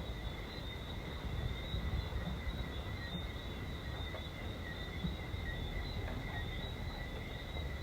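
A dense, steady chorus of frogs calling at two high pitches, over an even patter of rain on a sheet-metal roof.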